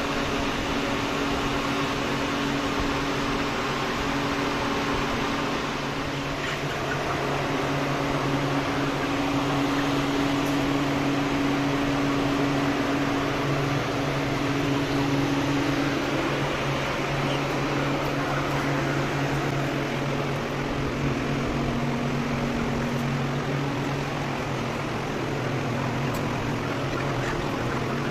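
Steady machinery hum with a low drone whose pitch shifts slightly now and then, like ventilation fans or feed-line motors running in a broiler house.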